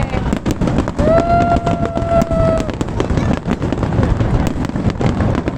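Fireworks display going off: dense crackling pops and bangs over a steady low rumble of bursts. A single long held note sounds about a second in and stops near the middle.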